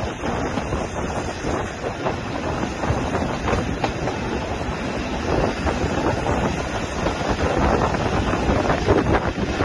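Steam-hauled passenger train carriage running along the track, heard from an open carriage window: a steady rattle and clatter of wheels and running gear, with wind buffeting the microphone, getting gradually louder.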